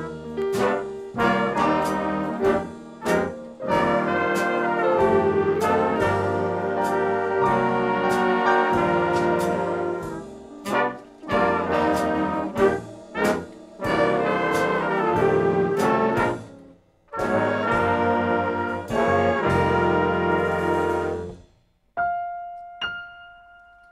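Brass ensemble with trumpets and trombones playing a lively piece full of short, sharply accented chords. The music stops a couple of seconds before the end, leaving a faint, steady high tone.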